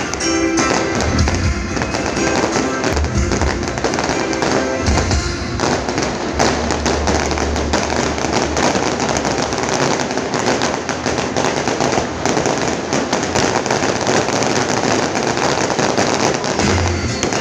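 Fireworks bursting and crackling in quick succession, with deep booms among them, over loud music.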